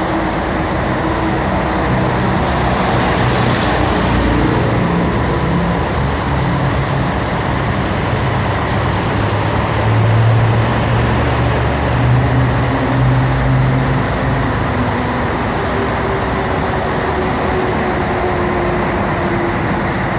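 Scania 112H truck's diesel engine running loudly and steadily, its note rising and falling in steps about halfway through.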